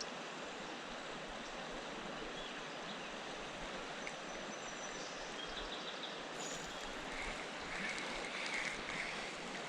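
River water flowing steadily over rocks, an even rushing hiss.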